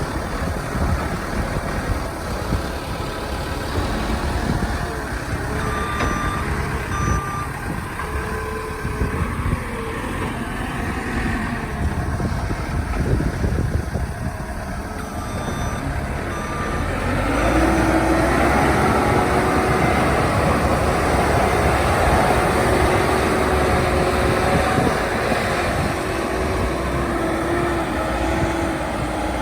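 JCB 215E backhoe loader's diesel engine running, with its reversing alarm beeping in two short runs of a few beeps each. About 17 seconds in, the engine speeds up and runs harder and louder under load.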